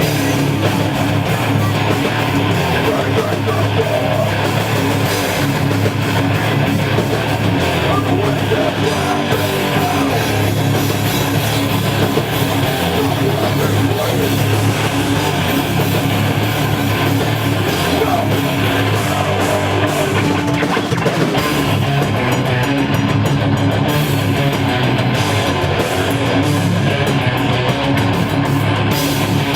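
Thrash metal band playing live: electric guitars, bass and drum kit, loud and continuous.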